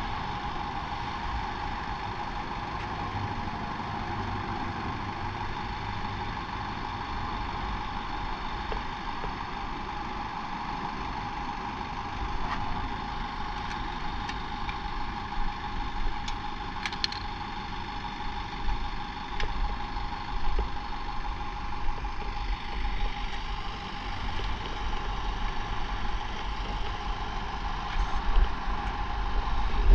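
Motorcycle engine idling steadily, with irregular louder low thumps from about twelve seconds in.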